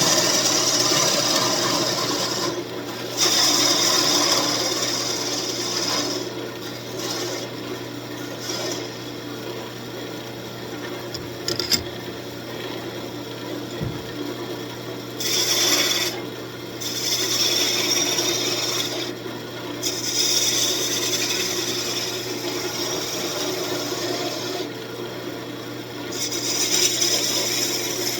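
Wood lathe running with a steady motor hum while the spinning walnut is worked, a rasping, rubbing scrape that swells and eases every few seconds, with one sharp click about twelve seconds in.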